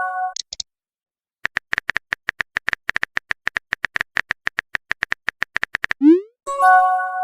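Typing-click sound effect of a chat app, a rapid even run of about six clicks a second, as a message is typed out. Near the end it is followed by a quick rising swoop and a short tonal chime: a message-sent notification.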